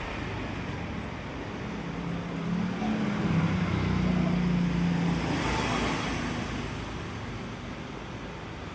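Electric fan running at high speed: a steady rush of air noise. Through the middle a low hum swells and fades again.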